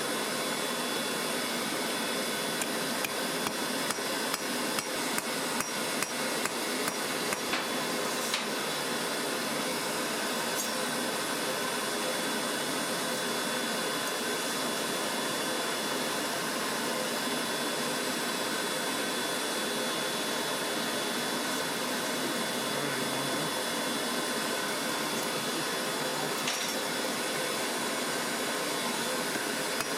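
Forging hammer striking metal in a steady run of blows, then a few more near the end, over a constant rushing noise.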